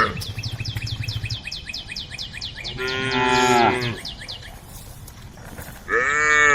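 Cows mooing: a call about three seconds in lasting about a second, and another beginning near the end. Between them a fast, high-pitched ticking or chirping run is heard.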